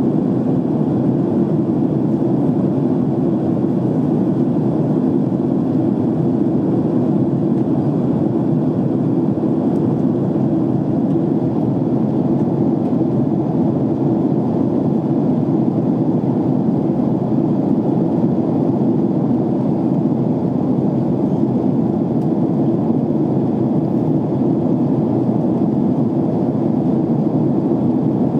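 Airliner cabin noise in flight: a steady, even rush of engine and airflow noise, deep and unchanging throughout.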